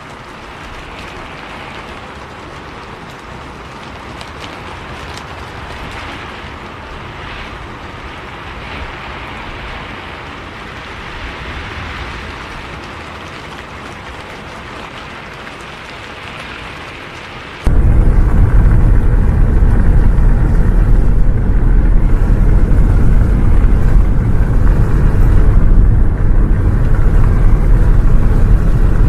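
Steady rain hiss for about the first 18 seconds, then a sudden cut to a much louder, steady low rumble of a bus driving in the rain, with rain noise over the engine and road drone.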